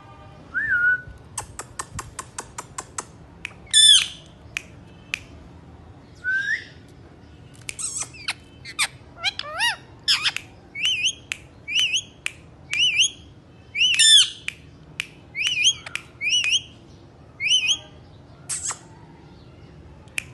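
Indian ringneck parrots calling: a fast run of sharp clicks, two loud squawks, and a long series of short rising chirps repeated about twice a second.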